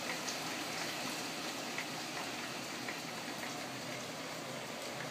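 Steady rain, an even hiss with scattered drops ticking close by.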